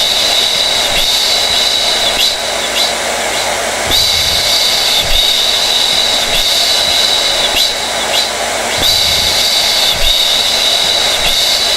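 Hair dryer (blow dryer) running continuously: a steady rush of blown air with a high whine that swells and fades every few seconds.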